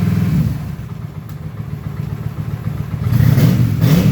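Honda Shadow 750 V-twin motorcycle engine running: it settles from a fast idle to a lower idle about half a second in, then is revved up and back down twice near the end.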